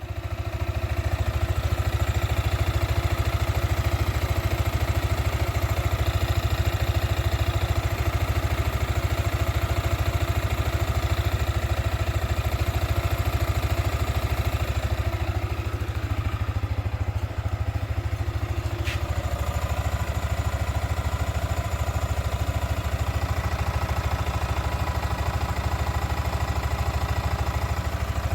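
Yamaha Sniper 155 VVA (Exciter 155) single-cylinder engine idling steadily at close range, with the whirring 'helicopter' sound this model is known for when off the throttle.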